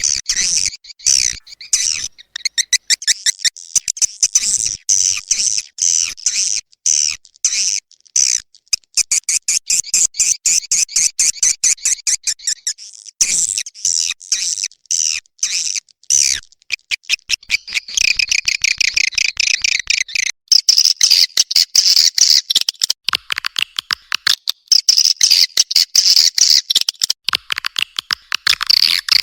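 Swiftlets twittering in a dense, unbroken stream of rapid high chirps and clicks: a swiftlet call-sound recording of the kind played to draw swiftlets into a nesting house.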